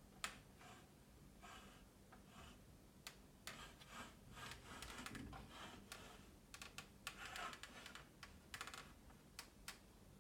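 Faint, irregular clicks and taps, some in quick clusters, with light rustling between them.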